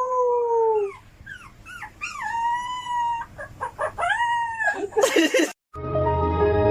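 A dog howling in several drawn-out calls that rise and then fall, with short yelps between them. Near the end there is a brief noisy burst, then music.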